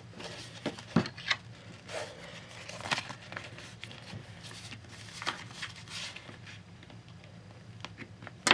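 Folded paper rustling and crinkling in irregular short bursts as a paper airplane's rear creases are worked open and shaped, with a sharp knock right at the end.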